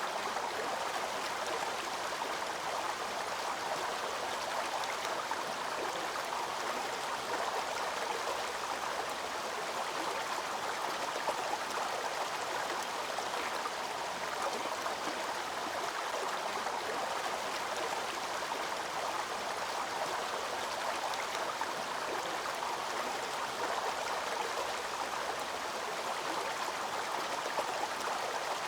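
Waterfall and its stream rushing over rocks, a steady, even water noise that does not change.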